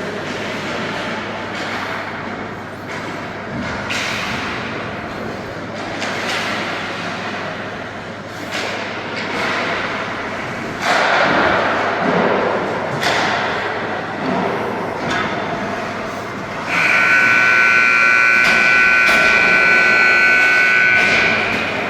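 Game noise in a large hall: a steady din with scattered knocks and thuds, then a loud, steady horn that sounds for about five seconds near the end.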